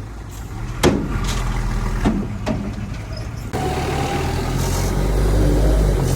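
Heavy diesel earthmoving machinery running, with sharp metallic clanks about a second in and again around two seconds in. A little past halfway the engine grows louder and heavier, as if taking load or revving up.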